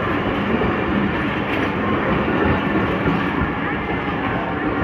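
Passenger coaches of a departing express train rolling past close by: a steady rumble of steel wheels running on the rails, with a light clatter.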